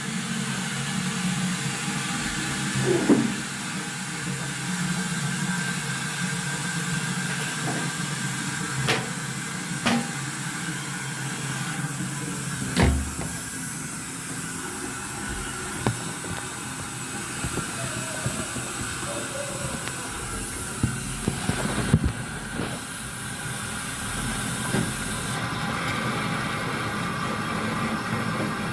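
Steady hiss with a low hum, broken by a few sharp knocks and clicks.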